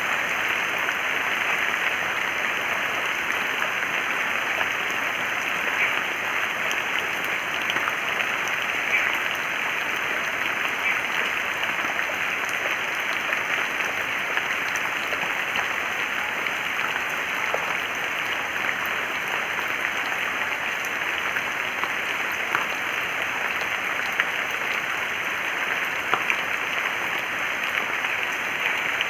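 Steady, even hiss of falling or running water, with a few faint ticks scattered through it.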